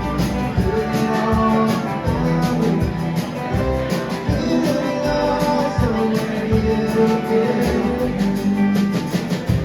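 Live band playing a song, with guitars prominent over a steady beat.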